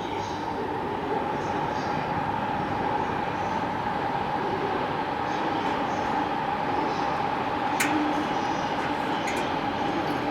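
209 series MUE-Train electric test train running on the rails: a steady loud rumble with a held high-pitched whine and a few sharp clicks near the end.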